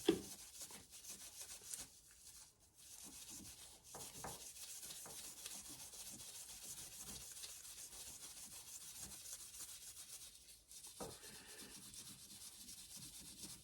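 Steel wool scrubbing a bicycle brake cable housing: a faint, fast, scratchy rubbing that pauses briefly a couple of seconds in and again near the end.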